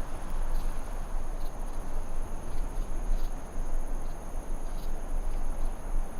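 Steady high-pitched insect chirring, like crickets, with a few faint short chirps scattered through it over a low background rumble.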